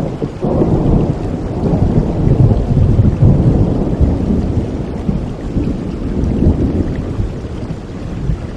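A long rolling thunder rumble over steady rain, swelling about half a second in, at its loudest in the middle and slowly dying away near the end.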